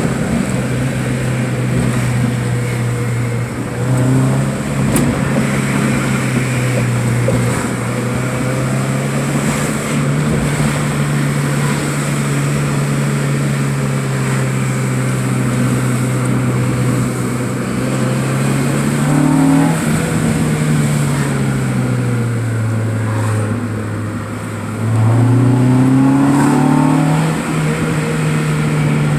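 A car engine running while driving, its steady hum rising and falling in pitch as the car speeds up and slows down. It dips, then climbs and grows louder near the end as the car accelerates.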